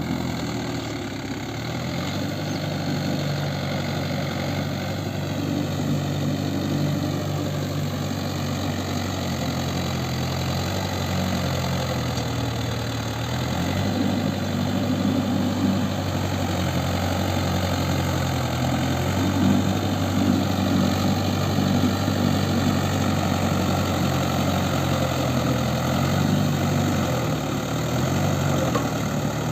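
Mahindra Yuvo 575 4WD tractor's four-cylinder diesel engine running steadily. Its pitch and load shift every few seconds.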